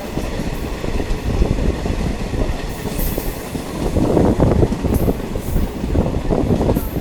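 Diesel multiple unit train running, heard from aboard: a steady rumble of wheels on the track with irregular knocks, swelling briefly about four seconds in.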